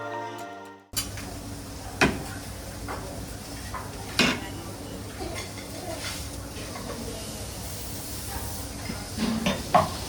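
Dishes and cutlery clinking now and then over the steady background noise of a buffet restaurant. Background music fades out about a second in.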